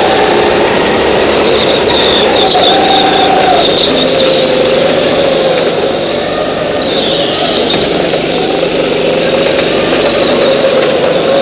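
Go-kart engines running hard, their pitch rising and falling as the karts accelerate and slow through the corners.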